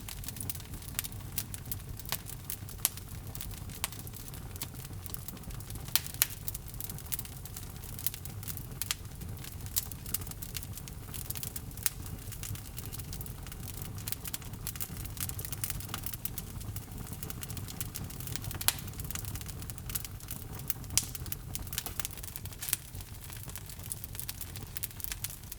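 Wood logs burning in a fireplace, crackling and popping at irregular moments over a low steady rumble of the flames.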